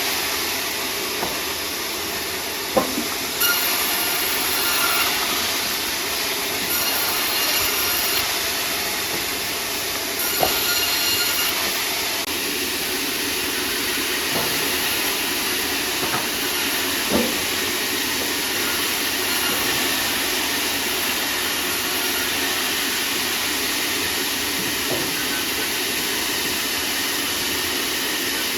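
Sawmill saw running steadily while cutting sengon wood, with a high whine coming and going three times in the first dozen seconds and a few sharp knocks.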